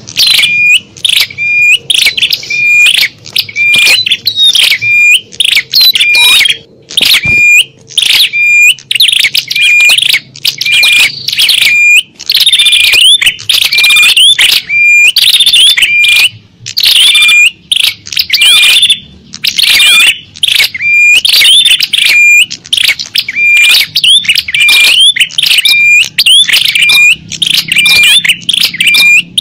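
Small-bird lure recording: loud, rapid, repeated high chirps, about two a second with brief gaps, played to attract small songbirds.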